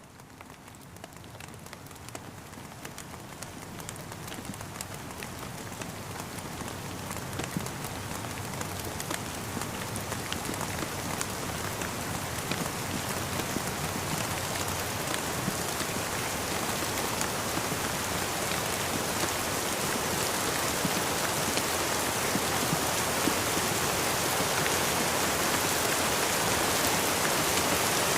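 Steady rain falling, a dense hiss with many small drops tapping. It fades in from quiet, growing louder over the first ten seconds or so, then holds steady.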